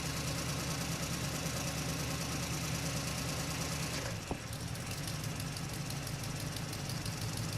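Mitsubishi truck's diesel engine running steadily. About four seconds in the sound dips briefly with a single click, and the engine note then settles lower.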